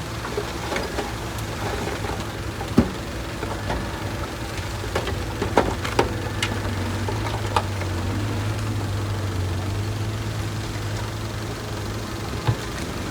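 Heavy construction machine's diesel engine running steadily at low revs, with a few scattered sharp knocks and clanks.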